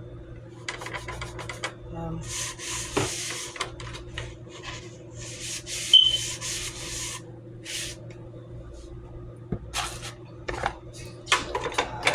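Rustling and rubbing as packages and items are handled and set onto refrigerator shelves, in bursts with a few sharp clicks and knocks, over a steady low hum.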